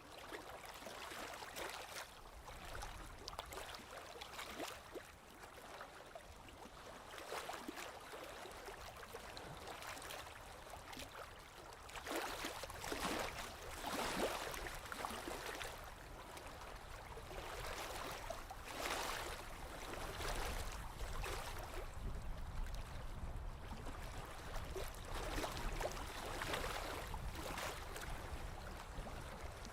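Small waves lapping on a lake shore, gentle swashes of water coming in irregularly every few seconds, a few of them louder, over a low steady rumble.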